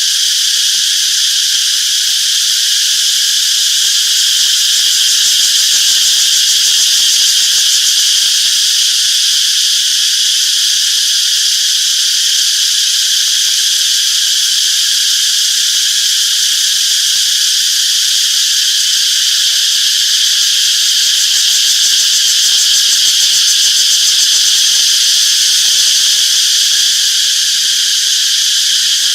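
A chorus of cicadas chirping: a loud, steady, high-pitched drone made of several pitches at once.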